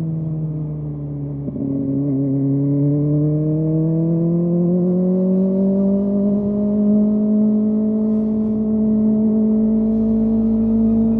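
Kawasaki ZX-25R's 250 cc inline-four running through its Yoshimura exhaust while riding, easing off briefly and then pulling up in revs slowly and steadily before holding a steady pitch.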